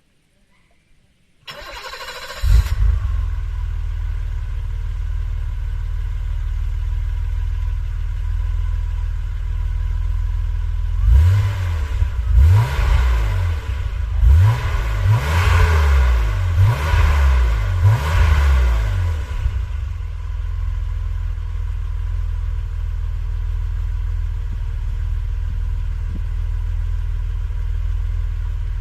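BMW E24 635CSi's M30B35 3.5-litre straight-six on its stock exhaust: it is cranked over and catches about two seconds in, then idles steadily. From about eleven seconds in it is blipped through a series of quick revs, up to about 4,000 rpm and not to the redline, then settles back to a steady idle.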